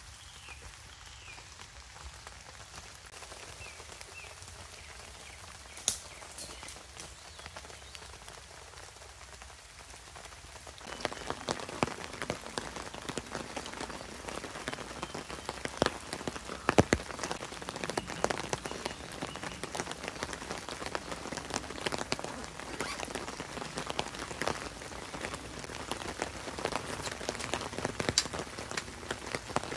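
Rain pattering on a tarp overhead: a dense, irregular ticking of drops with a few louder taps. It starts suddenly about a third of the way in, after a softer, steady hiss of rain in the woodland.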